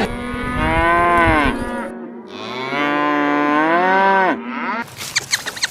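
Cow mooing: two long, drawn-out moos, one after the other. A few short clicks follow near the end.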